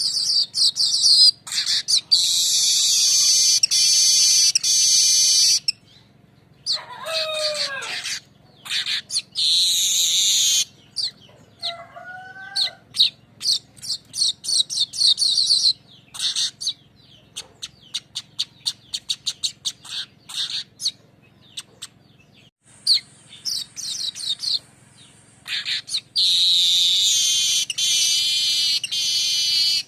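Manyar weaver bird singing its rolling song: long, high, buzzy chattering trills, a few down-slurred whistled notes, and quick runs of dry ticks.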